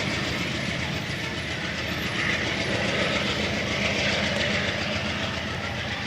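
A train rolling past, its steel wheels running over the rails as a steady clatter.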